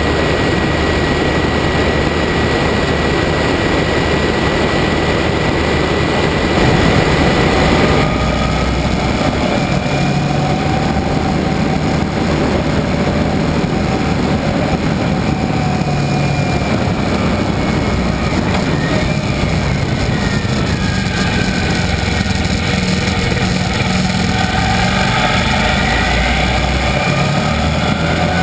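Motorcycle engine running under way with heavy wind noise, its pitch rising and falling with the throttle. The sound changes abruptly about eight seconds in.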